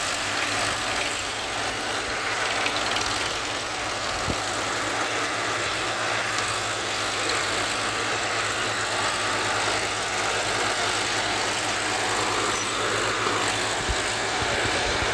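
Tractor engine running steadily, with a low even drone and no rise or fall in speed.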